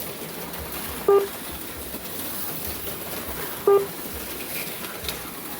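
HO slot cars running laps, a steady mechanical whir under everything, with a short electronic beep from the lap-counting system twice, about a second in and again near four seconds, as cars cross the line.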